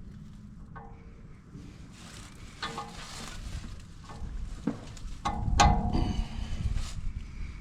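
Metal clanking and knocking as wood chipper blades, bolts and tools are handled. The loudest is a sharp metal strike about two thirds of the way in, which rings on for about a second and a half.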